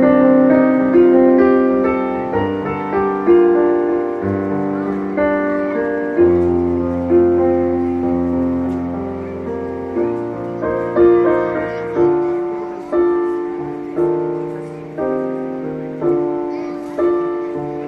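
Piano playing a slow, lyrical ballad melody over chords, notes struck roughly once a second and left to ring and fade.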